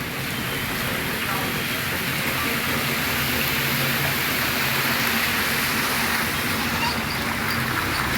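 Road traffic in a flooded street: the low, steady hum of idling vehicle engines under a constant rushing hiss.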